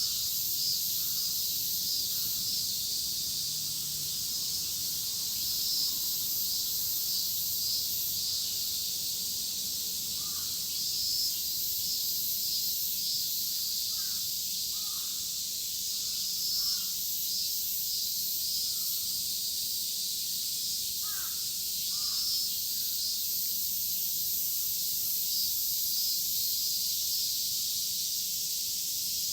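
A dense chorus of cicadas buzzing steadily and shrilly in summer trees. Crows caw several times over it, mostly in the middle of the stretch.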